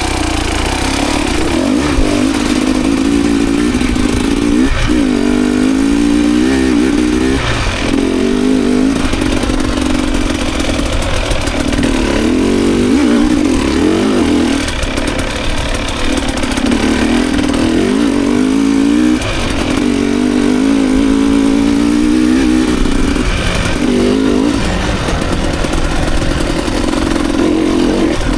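Enduro dirt bike engine working hard on a trail ride, revving up and falling back over and over as the throttle is opened and shut, with short breaks every couple of seconds.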